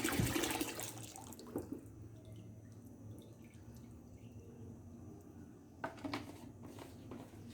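Ethanol being poured into a bucket of warm tallow and used frying oil, a pouring rush that tapers off about a second and a half in, followed by faint drips and a couple of light knocks.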